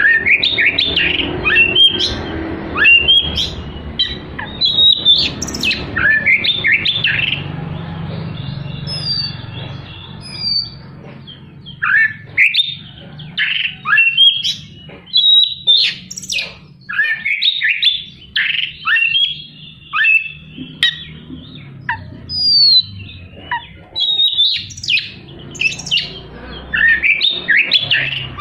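Oriental magpie-robin singing a fast, harsh song of sharp, quickly falling notes, delivered in dense chattering runs broken by short pauses.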